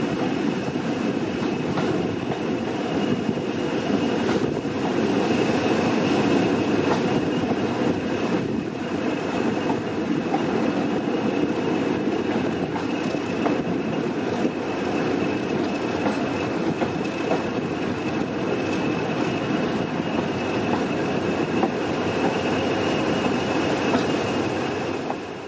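A train running along the track: a steady rumble of wheels on rail with faint clickety-clack over the rail joints and a thin, steady high wheel squeal.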